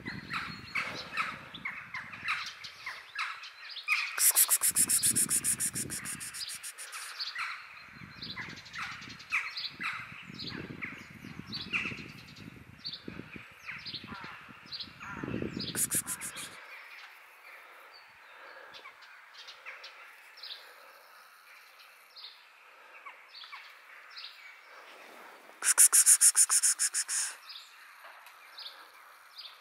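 Birds chirping outdoors, many short calls in quick succession, with three louder bursts of rapid high-pitched rattling about four seconds in, around the middle, and near the end. A low rumble underneath stops about halfway through.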